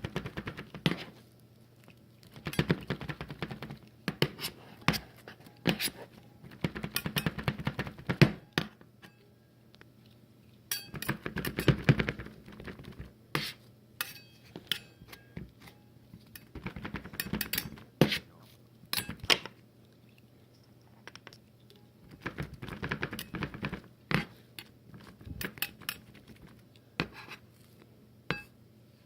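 Utensils clinking, tapping and scraping against a plate or board in irregular bursts, over a faint steady low hum.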